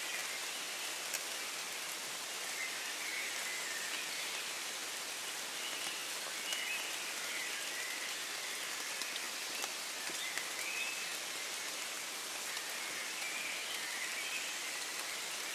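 Steady rain falling in woodland, an even hiss with individual drops ticking sharply here and there. Faint wavering calls come and go in the background.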